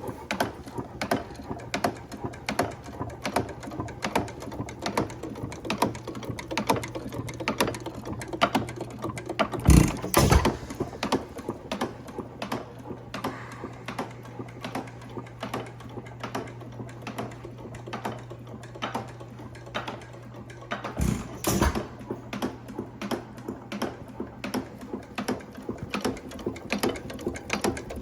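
IHC Famous 2-1/2 hp hit-and-miss gas engine running: a steady fast clicking as it coasts between firings, broken by a pair of loud firing bangs about ten seconds in and another pair about twenty-one seconds in. The engine fires only when its speed drops enough for the governor to let it take a charge.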